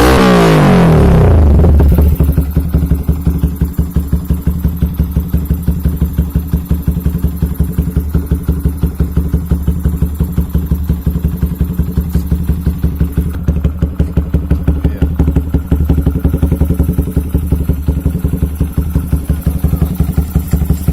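Yamaha Vixion's single-cylinder four-stroke engine running through an aftermarket KOU exhaust, revved for about two seconds and then dropping back to a steady, pulsing idle.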